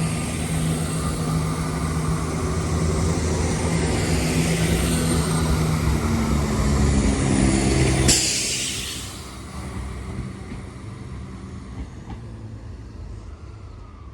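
Diesel engines of a Chiltern Railways Class 168 diesel multiple unit running under power as the train pulls out. About eight seconds in there is a sudden loud hiss, after which the engine sound drops away as the train leaves.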